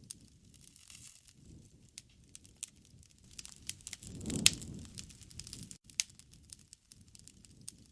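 Wood fire crackling, with irregular sharp pops and snaps. About halfway through the flames swell with a low rush, and the loudest pop comes at the same moment.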